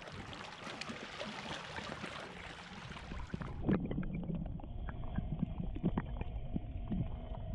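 A steady rushing noise, then after an abrupt cut about three and a half seconds in, a dinghy's small outboard motor running with a steady hum, low rumble and water slapping against the hull.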